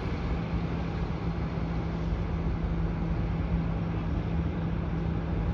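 Steady outdoor background noise with a constant low hum running through it, the general rumble of distant vehicles and airport activity. No single event stands out.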